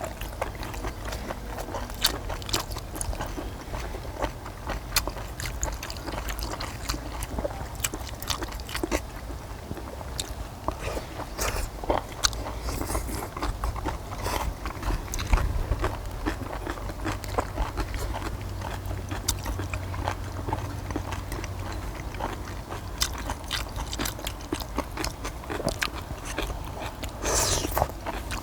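People eating stir-fried small octopus with kimchi: chewing and biting, with utensils clicking and scraping on a cast-iron cauldron-lid griddle in many short clicks.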